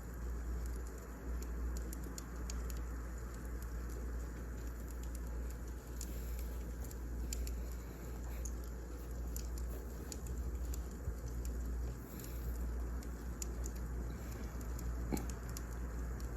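Wood fire crackling: a steady low rumble and hiss with irregular small pops and snaps scattered throughout.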